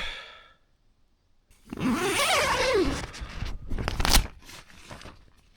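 A tent door zipper pulled open in one long rasp that lasts about a second and a half, followed by fabric rustling and a sharp click about four seconds in.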